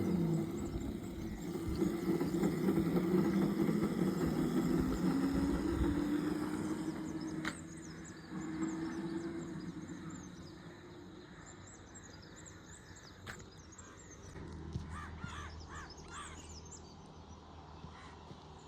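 A motor vehicle passing and fading away, its engine tone dropping as it goes, followed by birds calling, with a run of short repeated calls near the end.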